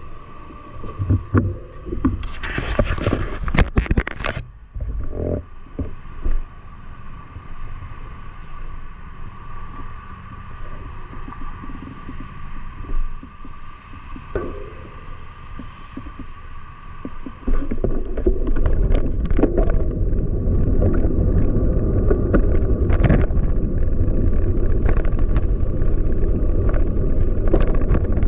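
Riding a bicycle through city streets: tyre and road noise with a burst of rattling a few seconds in, then low wind rumble on the microphone that turns loud and steady about two-thirds of the way through.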